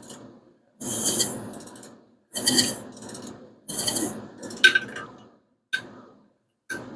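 Half-inch drive ratchet with a 21 mm socket working the crankshaft bolt of a 5.7 Hemi engine: three strokes about a second and a half apart, each a burst of ratchet clicking lasting about a second, then a few single clicks near the end.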